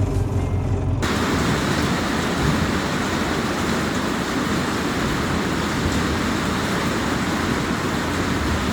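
Hard rain pouring down steadily, a dense even hiss that starts abruptly about a second in as music cuts off.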